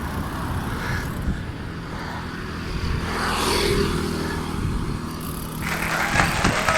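Road traffic noise heard from a moving bicycle, with a motor vehicle passing about three seconds in. Near the end a dense applause-like hiss cuts in suddenly.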